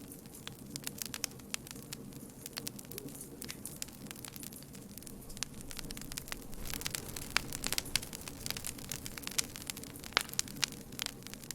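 Campfire crackling, with quick sharp pops over a low steady rumble of burning wood; the pops come thicker and louder from about halfway through.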